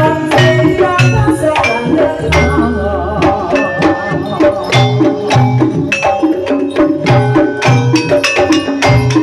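Jaranan ensemble music played live: repeating drum strokes under ringing pitched metal percussion in a fast rhythm, with a deep, longer low stroke a little over two seconds in.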